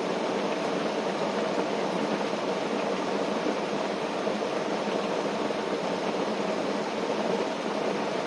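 Steady rain falling on a tent: an even, unbroken rushing patter with no gusts or pauses.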